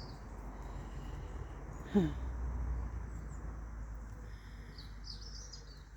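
Small birds chirping in short high twittering phrases, loudest near the end, over a steady low rumble. About two seconds in, one short, louder call that drops in pitch.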